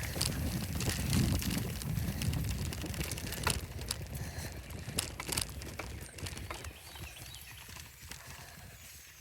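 Bicycle ride noise: a low rumble of wind and motion with scattered clicks and rattles, dying away over the last few seconds.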